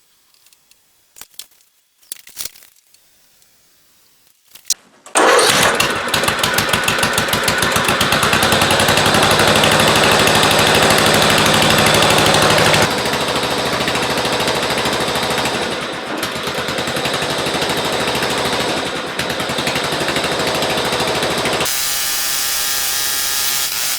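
A few faint clicks, then about five seconds in a small lawn mower engine starts from cold and runs with a fast, even beat. Its note changes about halfway through and again near the end.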